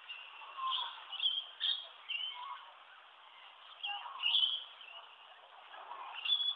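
Small birds chirping and calling: short chirps and whistles in several clusters, the loudest about four seconds in.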